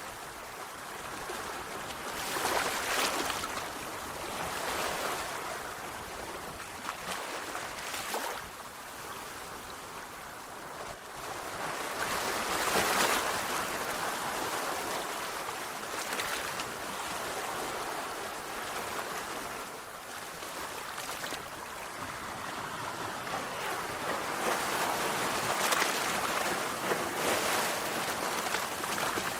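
Sea waves breaking and washing on a shore, a steady hiss of surf that swells and falls as each wave comes in, with louder surges about 3 s, 13 s and 25 s in.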